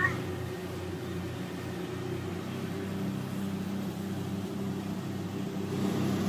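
Steady low engine drone aboard a boat, a hum of several held pitches. A young child gives a short rising squeal right at the start.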